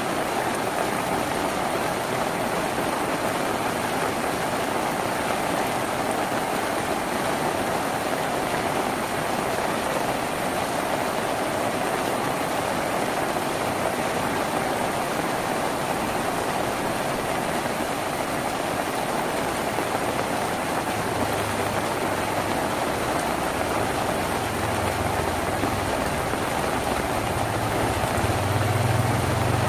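Steady rain drumming on a tin roof. A low rumble joins in about two-thirds of the way through and grows louder near the end.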